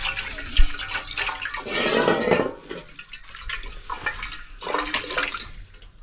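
Water splashing in a wash basin as someone scoops it onto their face and hair with their hands, in irregular bursts that are loudest about two seconds in.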